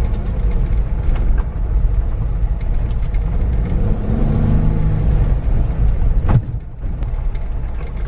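Manual-transmission car running with a heavy low rumble as the learner eases out the clutch; the engine note rises and falls around the middle. A sharp click comes about six seconds in.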